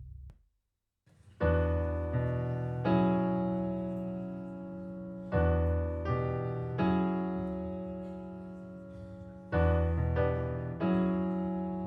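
Piano music played back through Elfton Vegas II loudspeakers and picked up by room microphones. After the tail of a drum hit dies into a second of silence, slow, sustained piano chords enter, a new chord struck every one to three seconds and each left to ring down.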